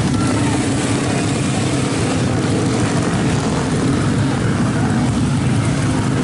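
Small motorcycle engines revving hard and unevenly, their pitch wavering up and down as the bikes churn and slip through deep mud.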